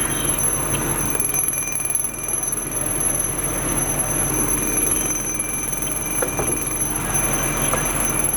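A steady high-pitched electronic alarm tone, held without a break over a constant rushing noise.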